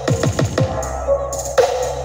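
Electronic dance music with heavy bass kicks that drop in pitch, played loud through a Blizzard Audio horeg sound system at a sound check. There is a quick run of about four kicks in the first second and another kick near the end, over steady deep bass.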